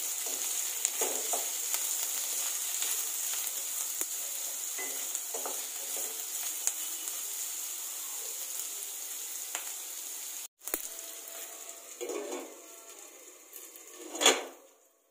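Onions, carrots and beans sizzling as they fry in oil in a stainless steel kadai, stirred in regular strokes with a wooden spatula. After about ten seconds the sizzle is quieter, and near the end a glass lid lands on the pan with one loud knock.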